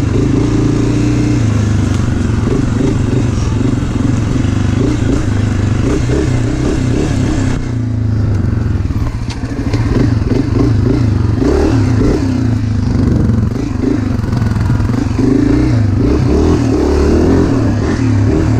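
Dirt bike engine running under load while riding a trail, its pitch rising and falling as the throttle is opened and eased off.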